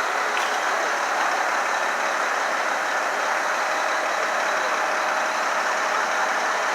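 Vehicle engines idling steadily on a street: a constant running noise with a faint steady hum in it.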